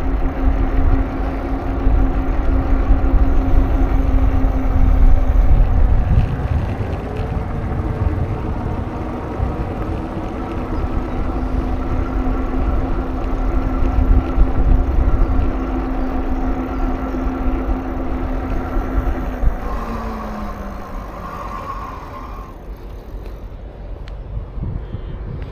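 Wind rumbling on the microphone while riding, over a steady motor hum. The hum falls in pitch about twenty seconds in and fades, as a passing vehicle would.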